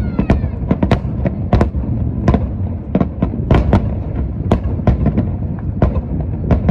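Aerial fireworks display in a dense barrage: shells bursting in rapid, irregular sharp bangs, several a second, over a continuous low rumble of booms.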